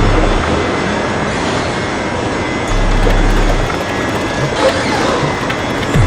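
SEPTA Market-Frankford El train running on its track: a steady noise of wheels on rails, with a deep hum that swells at the start and again about three seconds in.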